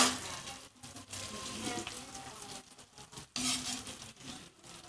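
Chicken feet in a thick sauce sizzling quietly in a metal pan as a spoon stirs them. There is a single sharp clink of the spoon against the pan right at the start.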